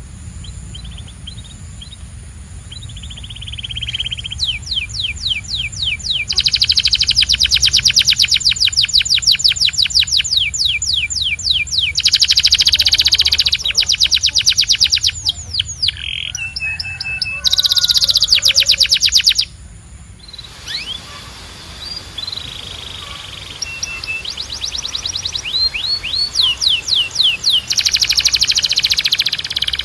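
Domestic canary singing in fast trills of rapidly repeated sweeping notes, strung into long rolling runs with a short break about two-thirds of the way through. A steady low hum runs underneath.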